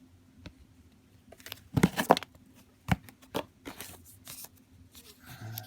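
Packaging being handled and unwrapped by hand: scattered sharp clicks and short crinkly rustles, the loudest a cluster about two seconds in.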